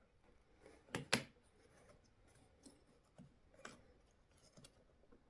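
Faint clicks of small RC car suspension parts and tools being handled: two sharp clicks about a second in and a third a few seconds later.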